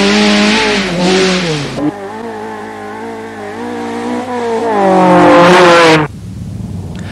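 A Nissan dirt-trial hatchback's engine running hard at high revs, with a hiss of tyres and loose dirt. The revs drop about two seconds in, then climb again to a loud peak before the sound cuts off about six seconds in.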